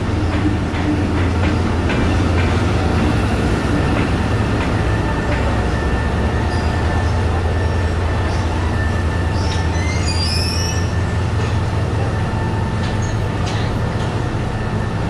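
D19E diesel-electric locomotive rolling slowly past with its engine running in a steady low drone, hauling a string of boxcars. A brief high squeal of wheels on rail comes about ten seconds in.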